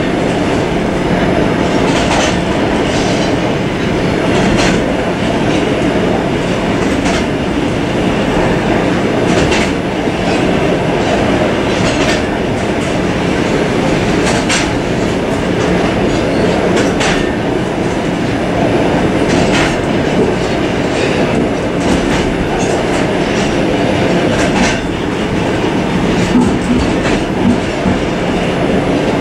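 Suburban train running along the track, heard from inside its rear vestibule: a steady rumble of wheels on rails, with a click about every two and a half seconds as the wheels pass over the rail joints.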